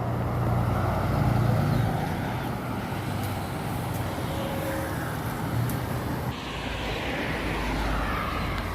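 Road traffic on a wet street: car engines humming, loudest in the first two seconds, then the hiss of tyres on wet pavement rising from about six seconds in as a vehicle passes.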